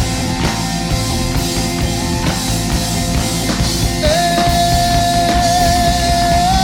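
Live worship band playing a rock-style song with drums and guitar between sung lines. About four seconds in, a long held note comes in over the band.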